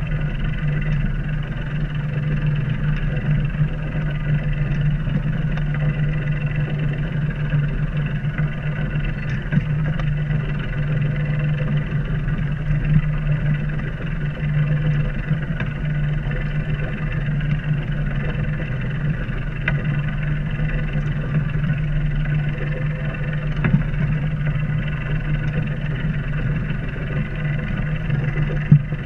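A sailboat's inboard engine running steadily under power, a constant low hum, with a few light knocks from around the boat.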